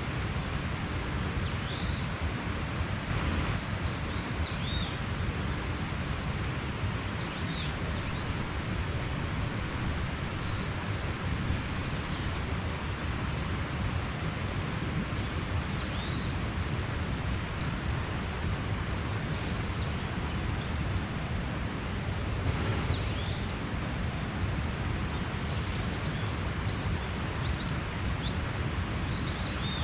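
Mountain stream running steadily, with a songbird giving short chirps every second or two.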